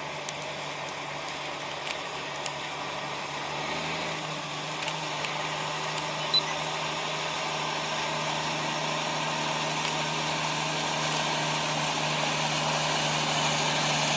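Semi truck engine running steadily with a low hum, growing gradually louder over a steady hiss, with a few faint clicks.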